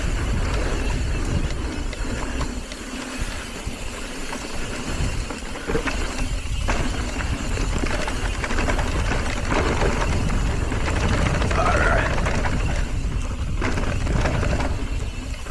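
Wind buffeting the microphone while an electric mountain bike is ridden over rocky trail, with the tyres and bike rattling and knocking over the rocks.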